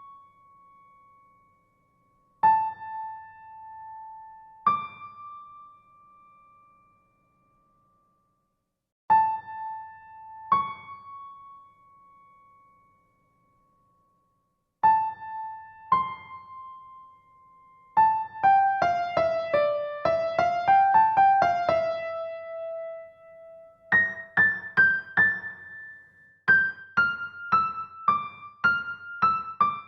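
Solo piano-like keyboard playing a slow single-line melody in a high register: sparse struck notes that ring and fade, with full silences between phrases. Around two-thirds of the way through it breaks into a quick run of notes, then settles into a steady stream of shorter notes near the end.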